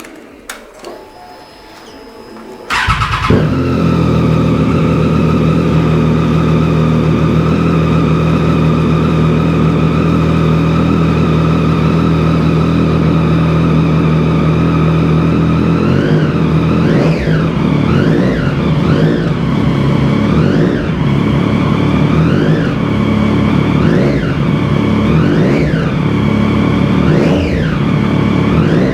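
2014 Triumph Street Triple 675's inline three-cylinder engine, fitted with a Yoshimura exhaust, starting about three seconds in and settling into a steady idle. From about halfway through it is revved with a string of about ten short throttle blips, the pitch rising and falling each time.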